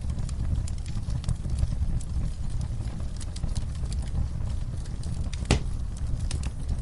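Campfire burning, with frequent small crackles and pops from the wood over a low steady rumble, and one sharper pop about five and a half seconds in.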